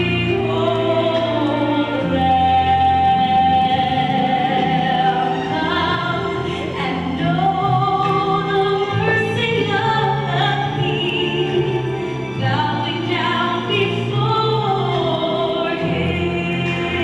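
A choir singing, with long held notes that waver in pitch over steady low notes.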